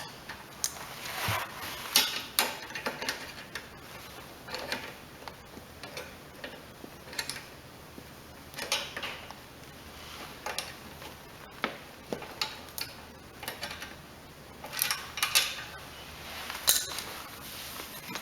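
Irregular small metal clicks, taps and short scrapes of hand tools and parts being worked while a carburetor is fitted and its fasteners tightened on a small Briggs & Stratton mower engine.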